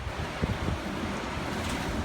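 Strong wind in a windstorm blowing steadily, with short low rumbles of gusts buffeting the microphone about half a second in.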